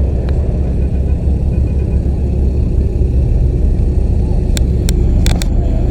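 A car's steady low rumble, engine and road noise, with a few sharp clicks near the end.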